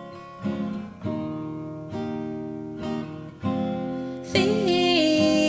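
Acoustic guitar strumming chords, about one stroke a second, each left to ring out. Near the end a singing voice comes in over it with a held, wavering note.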